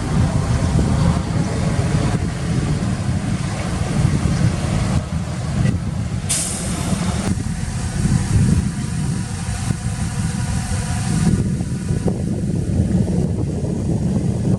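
Heavy diesel truck engine running steadily, with a sudden short hiss of air about six seconds in.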